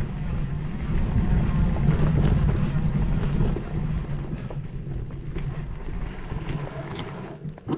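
Wind buffeting the microphone, with a low rumble of movement along the trail. It eases off over the second half, and there is a single sharp knock near the end.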